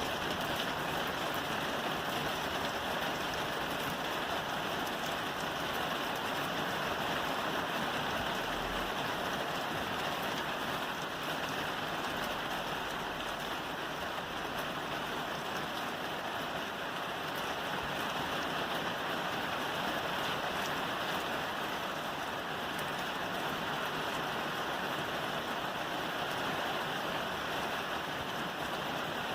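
Steady rain falling on a roof, an even patter of drops that holds at the same strength throughout.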